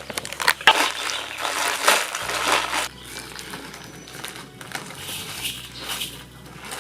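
Crunching, crumpling and crackling of leaves being handled, with dense rustles for the first three seconds, then quieter.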